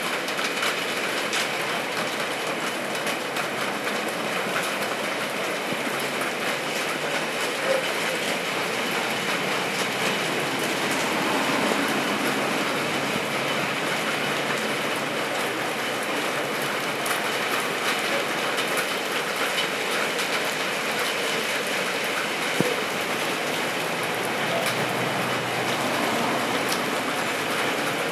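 Steady rain falling on the street and rooftops, a continuous hiss dotted with small drip ticks, with one sharper knock about three quarters of the way through.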